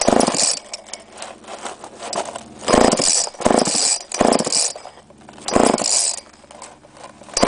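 Homelite Super 2 two-stroke chainsaw being pull-started: the recoil starter rope is yanked about five times in quick, uneven succession, and the engine turns over without catching. It is failing to start and needs priming.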